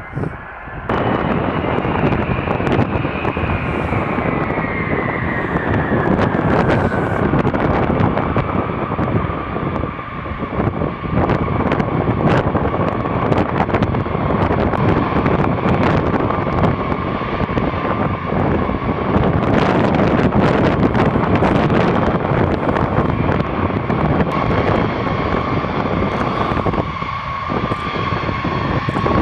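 Jet aircraft engines running with a dense rushing noise and a whine that falls in pitch over the first several seconds, then holds steady. The sound comes in sharply louder about a second in.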